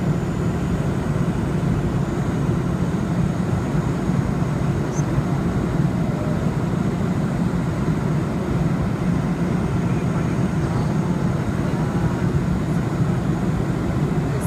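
Steady drone of an airliner cabin in flight, engines and airflow, even and unbroken, with the weight in the low end.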